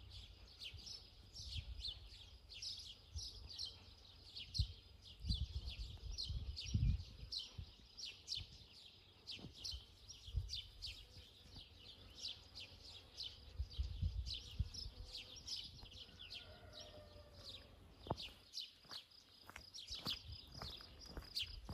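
Small birds chirping over and over, quick falling chirps two to three a second, over a gusty low rumble.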